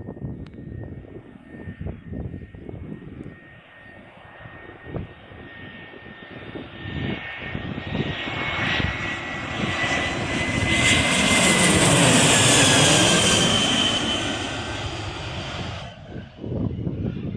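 Jet airliner on landing approach passing overhead: its engine noise builds to its loudest about two-thirds of the way through, with a high whine that falls in pitch as it goes by, then cuts off abruptly near the end.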